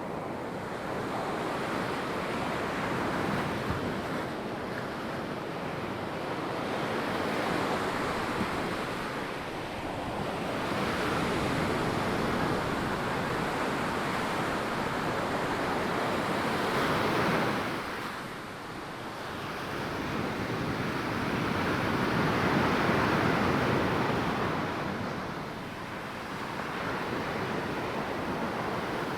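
Ocean surf breaking and washing up a sandy beach, the noise swelling and easing every several seconds as waves come in.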